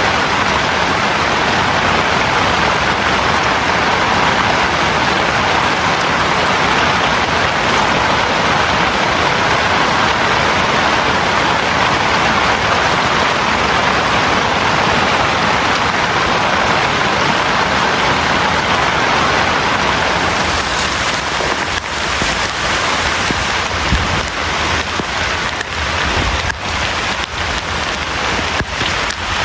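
Heavy rain falling as a steady, dense hiss. About twenty seconds in it turns patchier, with separate loud drops tapping.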